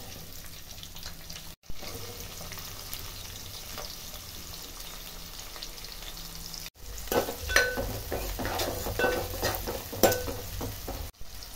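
Sliced onions and green chillies sizzling as they fry in hot oil in a metal pan. In the last third, a spoon stirs them and the sizzling grows louder, with sharp clicks of the spoon against the pan.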